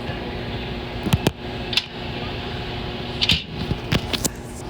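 Several sharp clicks and knocks over a steady hum.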